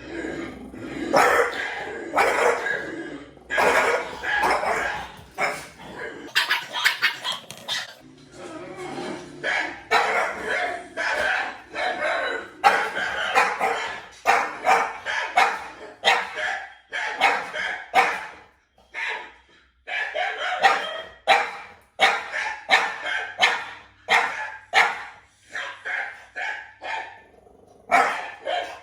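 Dogs barking again and again in short, irregular barks.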